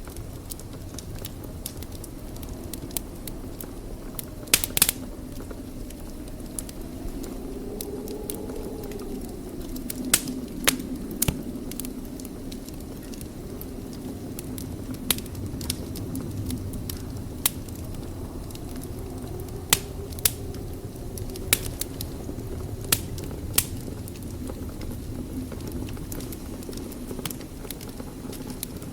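Wood fire burning in a fireplace: a steady low rumble of flames with sharp, irregular crackles and pops from the burning logs, several of them loud.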